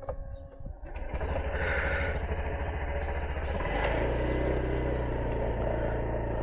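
Motor scooter engine starting about a second in and idling steadily, the idle note stepping up a little partway through.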